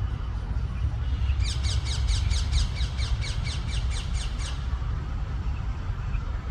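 A parrot screeches in a quick run of about a dozen short, falling calls lasting about three seconds, over a steady low rumble.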